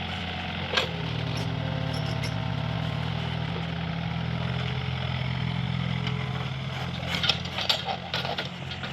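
Mini excavator's diesel engine running steadily under work, with a sharp knock about a second in and a quick cluster of metallic clanks near the end.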